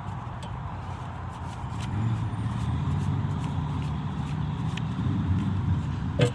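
Motor vehicle engine rumbling nearby, getting louder about two seconds in and staying steady. A single sharp click near the end.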